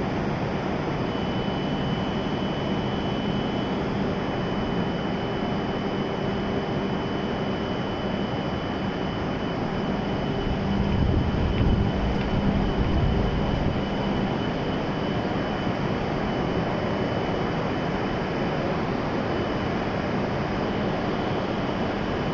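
E7 series Shinkansen train standing stopped at the platform: a steady hum and rush from the idling train, with a thin high whine throughout. A deeper rumble swells for a few seconds about halfway through.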